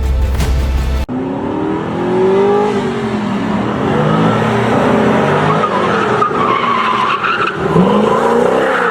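Music cuts off about a second in. After that a car engine revs up and down repeatedly while its tyres squeal and skid.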